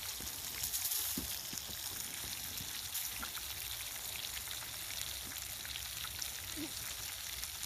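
Steady crackling hiss with scattered small pops: a campfire burning, with food sizzling in a cast-iron pan over it.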